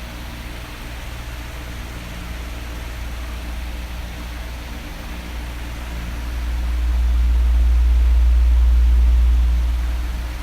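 Electric fan running steadily: a low motor hum under an even hiss of moving air. About six seconds in, the low rumble swells louder for a few seconds, then fades back.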